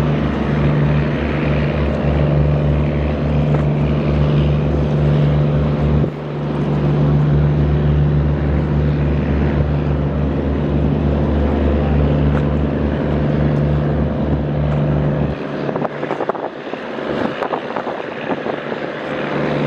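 Boat engine running at a steady pitch, with water and wind noise over it. The low engine drone falls away about fifteen seconds in, leaving the rush of water and wind with a few knocks.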